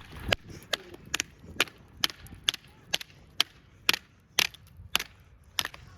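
A steady series of sharp knocks, about two a second and some thirteen in all, as of something being struck or chopped over and over.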